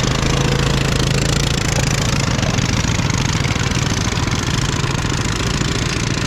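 Coleman mini bike's small single-cylinder four-stroke engine running steadily, with an even, rapid firing rhythm.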